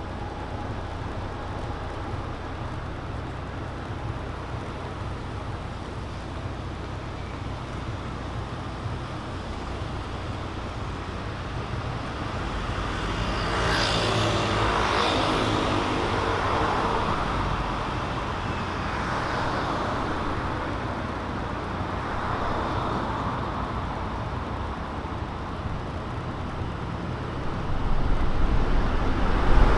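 Road traffic on a city street: a steady low hum under cars passing one after another, with louder passes about halfway through and again near the end.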